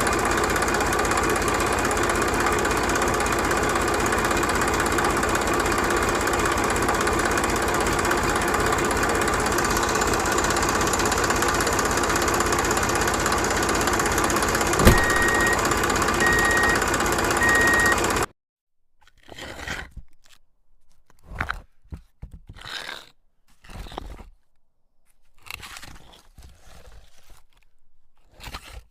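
Small motor of a homemade mini tractor running steadily. It cuts off suddenly about 18 seconds in, followed by short, separate crunching sounds.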